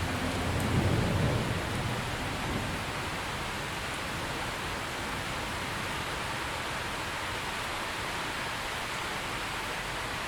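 Steady heavy rain falling, with a brief low rumble of distant thunder swelling and fading in the first two seconds.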